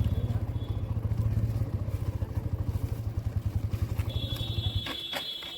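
Motorcycle engine running with an even, rapid low pulse, then switched off about five seconds in. A steady high-pitched tone starts just before the engine stops, with a few clicks as it shuts down.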